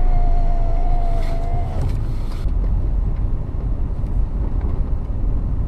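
Car engine running, heard from inside the cabin as a steady low rumble. A steady, slightly wavering tone sounds over it for the first couple of seconds.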